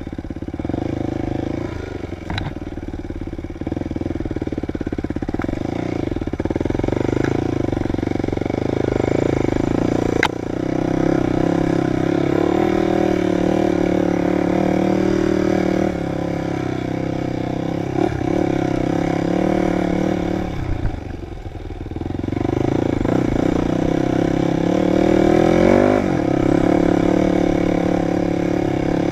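Dirt bike engine running under throttle while riding, its revs rising and falling, easing off briefly about two-thirds of the way through before picking up again. A couple of sharp clicks, such as stones striking, come through over the engine.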